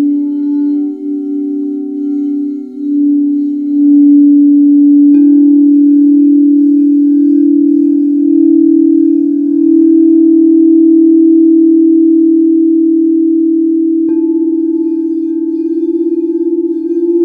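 Singing bowls ringing with a long, sustained hum that pulses and wobbles. A bowl is struck again about five seconds in and once more near the end, each strike renewing the tone.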